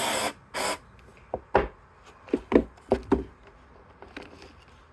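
Two short hissing bursts in the first second, then about seven separate knocks and taps of hard parts being handled and set down on a work surface.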